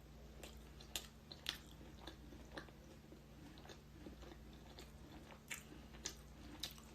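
Faint chewing: a few soft, scattered mouth clicks and crunches over a low steady room hum.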